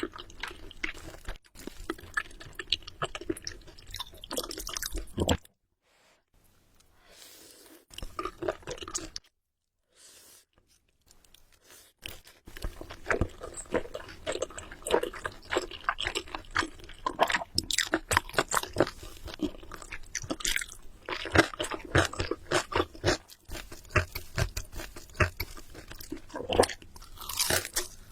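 Close-miked eating sounds: a person chewing and crunching food, with wet clicks and crackles packed close together. There is a quiet stretch of several seconds after about five seconds, then dense chewing resumes.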